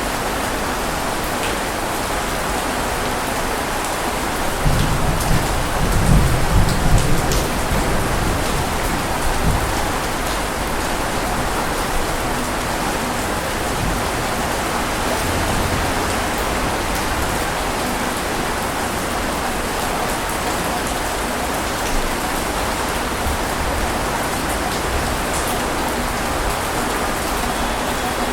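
Steady rain pattering, with a low rumble that swells about five seconds in and dies away over the next few seconds.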